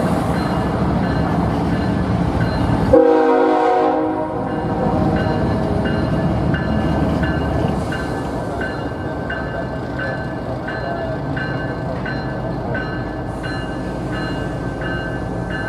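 A train running past with a steady rumble, a short horn blast about three seconds in, then a bell dinging steadily, a little under twice a second.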